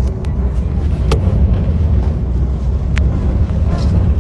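Enoshima Electric Railway train running, a steady low rumble with two sharp clicks, one about a second in and one near the end.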